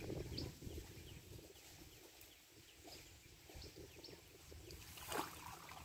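Faint outdoor ambience: a small bird chirping over and over in short, high, falling notes above a low rumble, with one brief louder noise about five seconds in.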